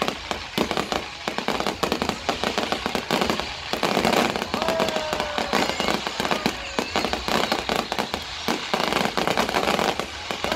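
Fireworks display: aerial shells bursting in a rapid, unbroken stream of bangs and crackling.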